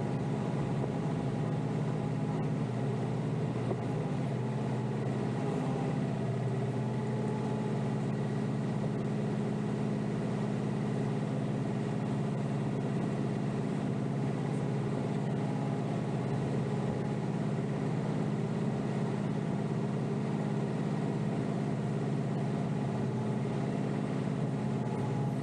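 Kioti DK5320SE tractor's diesel engine running steadily, heard from inside the cab.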